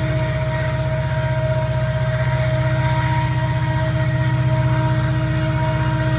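Diesel-electric locomotive engine working steadily under load on a slow loaded coal train: a rapid low throb with steady whining tones above it.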